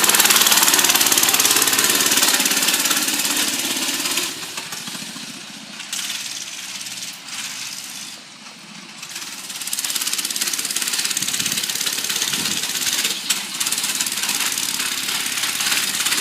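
Doodle Bug mini bike's 97cc single-cylinder engine running with a rattly note. It drops to a lower level from about four seconds in and comes back up loud around ten seconds.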